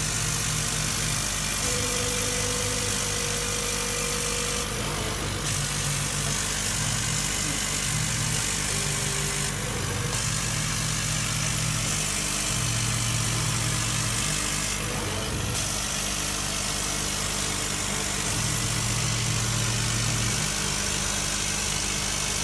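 Laser cutting and engraving machine at work: a steady hiss of fan and air, over which low motor hums start and stop every second or two as the head moves.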